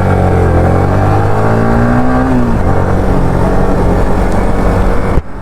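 Motorcycle engine running while riding, its revs climbing for about a second and then dropping away, followed by steady running and a brief sudden dip in sound near the end.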